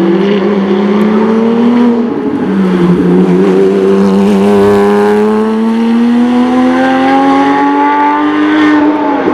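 Porsche race car engine pulling hard under acceleration. Its pitch climbs, drops at a gear change about two seconds in, then climbs slowly through a long gear before a second upshift near the end.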